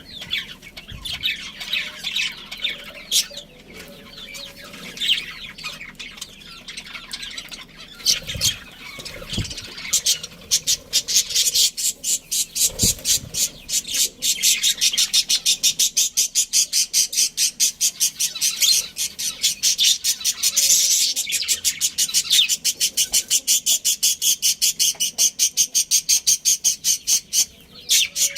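Budgerigars chirping and chattering, high-pitched: scattered calls at first, then from about a third of the way in a fast, steady run of sharp chirps, several a second.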